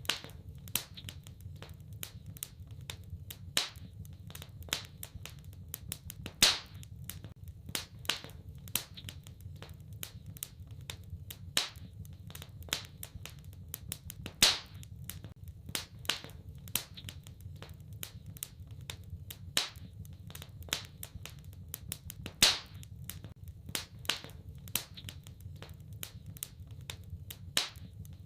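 Wood fire crackling: a steady stream of small snaps with a louder pop every few seconds, over a low steady rumble of the flames.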